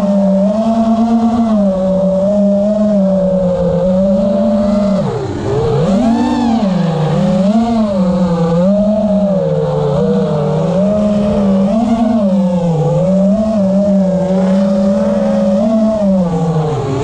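FPV quadcopter's brushless motors and tri-blade propellers whining steadily, the pitch rising and falling about once a second with throttle changes. About five seconds in there is a sharp drop and recovery as the throttle is chopped and punched again.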